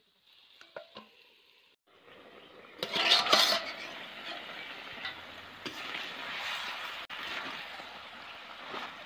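Chicken pieces in masala sizzling in a kadai while a metal spatula stirs and scrapes them against the pan. A few light clinks come first, then a loud burst of sizzling about three seconds in, settling into a steady sizzle with scattered scrapes and knocks.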